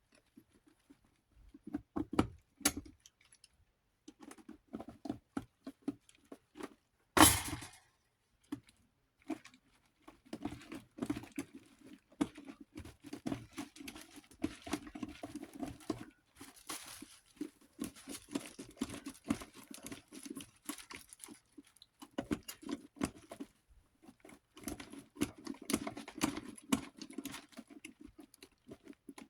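Small clicks, scrapes and taps of a screw being worked out and small metal fan parts being handled during disassembly, in irregular runs, with one louder knock about seven seconds in.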